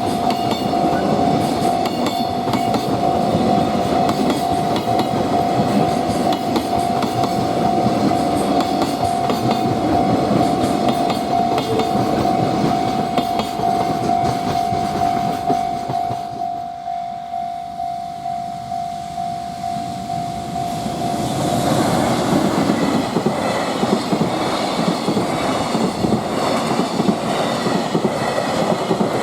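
A freight train passing close by, its wagon wheels clacking over the rail joints. A steady high tone sounds over the train noise and stops about three-quarters of the way through, after which the rolling noise gets louder and brighter.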